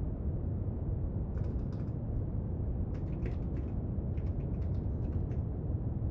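Steady brown noise, with faint light clicks from work at a study desk coming in three short clusters a little over a second in, around three seconds in, and again between four and five seconds in.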